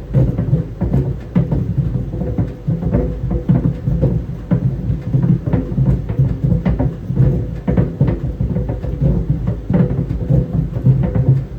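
Tennis balls tumbling in a running clothes dryer. They thud irregularly against the drum, several knocks a second, over the steady hum of the machine.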